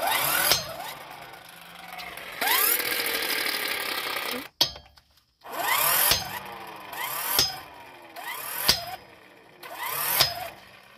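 An electric wrench on a car's wheel lug nuts, triggered in about six short bursts, its motor whirring up and winding down each time. It fails to loosen the nuts; the owners think it needs a more powerful electric wrench.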